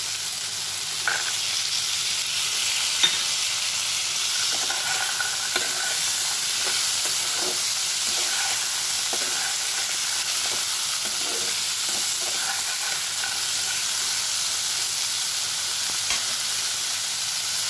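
Cubes of chayote squash and potato frying in oil in a non-stick kadai, a steady sizzle, with scattered knocks and scrapes against the pan as chickpeas are added and stirred in; the sharpest knock comes about three seconds in.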